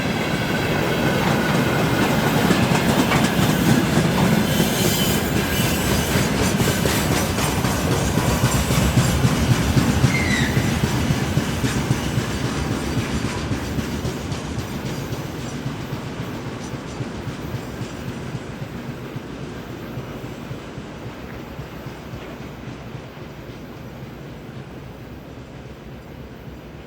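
Freight train's wagons rolling past, wheels clattering over the rail joints, then the sound fading steadily from about halfway through as the train moves away.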